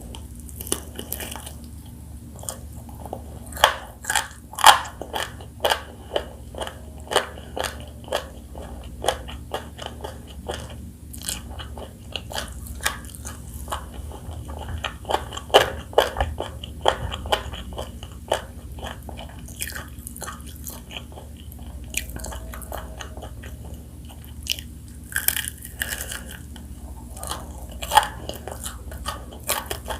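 Close-miked crunching and chewing of crispy fried chicken: irregular crackling bites into the fried coating, in several clusters, over a faint steady low hum.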